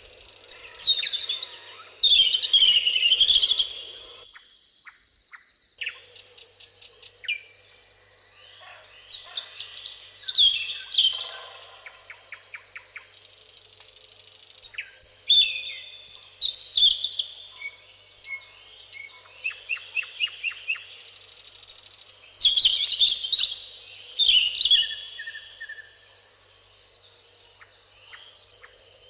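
Several songbirds singing and calling, with loud warbling phrases coming every few seconds and rapid runs of short repeated notes in between, over a steady high thin tone.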